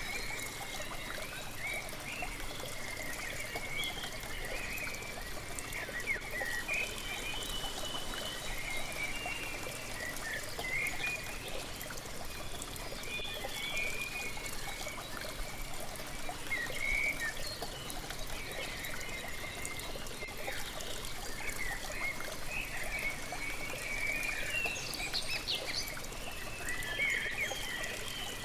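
Waterfall splashing and trickling steadily, with small birds chirping and twittering on and off throughout.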